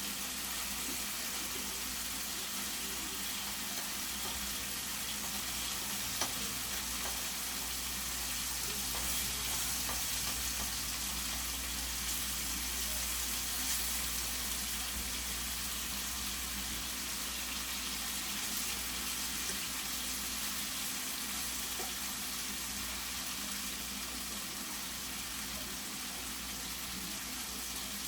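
Chicken pieces sizzling steadily as they fry in a pan, pre-cooking before the greens go in, with a single sharp click about six seconds in.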